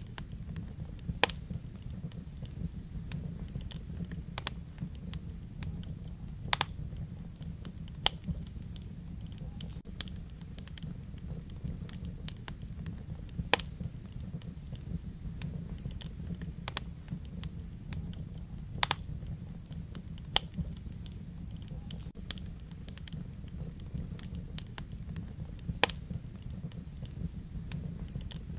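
Wood fire burning in a fireplace: a steady low rumble of the flames with irregular sharp crackles and pops, a few of them louder than the rest.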